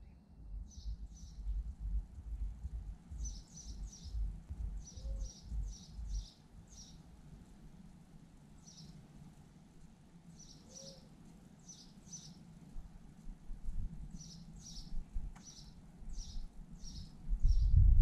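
Bird chirping: short, high chirps repeated through the whole stretch, often in quick pairs or threes, with brief gaps. Under them runs a low rumble that swells near the end.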